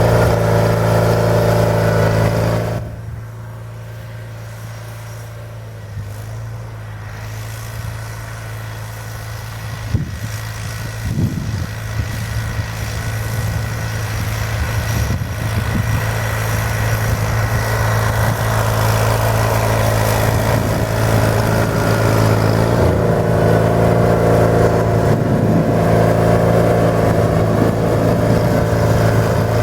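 Vehicle engine running steadily while plowing snow. Its level drops sharply about three seconds in, then gradually builds back up, with a few short knocks along the way.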